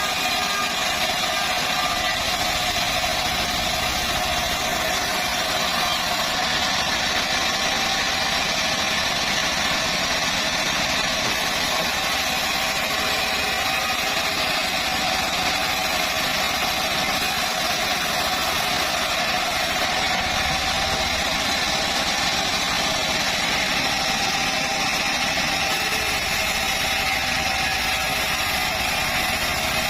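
Band sawmill running steadily: its engine and band blade keep up an even, unbroken whine and drone.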